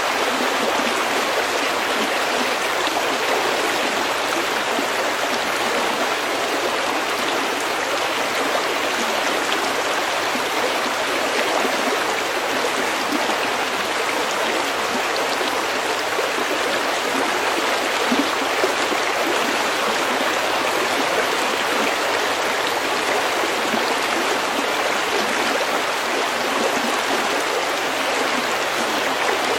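Stream water running over pebbles: a steady, even babbling rush.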